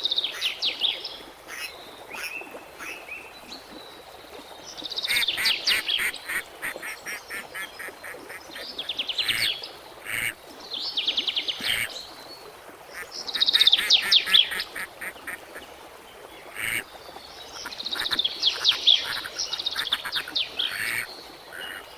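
Birds calling in about half a dozen loud, rapid chattering trills, each one to three seconds long, with short pauses between them.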